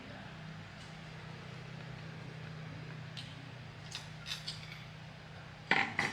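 Hand work on metal machine parts: a few light clicks and taps, then two sharp knocks about a second from the end, over a steady low hum.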